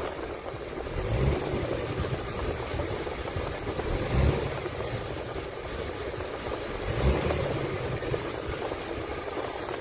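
Scania S450 tractor unit's DC13 inline-six diesel engine running steadily, with a low swell about every three seconds.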